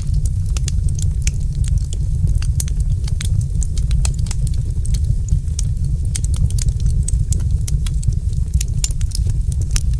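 Wood fire crackling, with many sharp little pops and snaps over a steady deep rumble.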